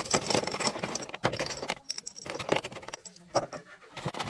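Small metal objects clinking and rattling as they are handled, in quick irregular clusters with a short pause after about three seconds.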